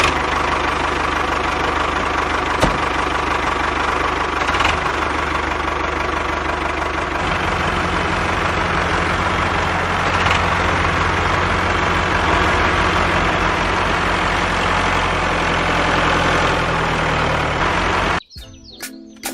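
Tractor engine running steadily at idle, with a low, even throb from about seven seconds in, then cutting off suddenly near the end.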